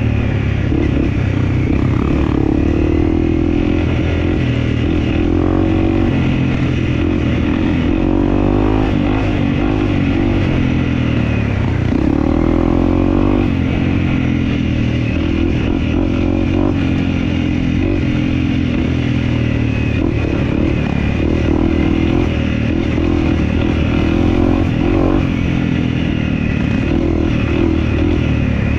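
Dirt bike engine being ridden, its pitch rising and falling repeatedly as the throttle opens and closes.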